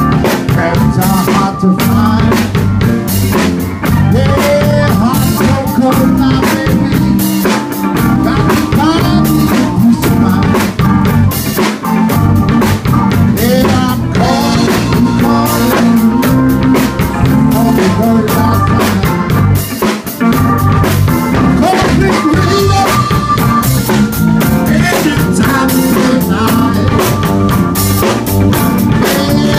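Live blues band playing, with a drum kit keeping a steady beat.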